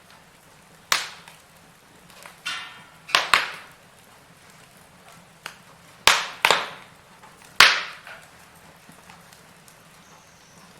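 Firewood burning in a fireplace, crackling with about eight sharp pops at uneven intervals, the loudest about two-thirds of the way in. A brief hiss comes just before the middle.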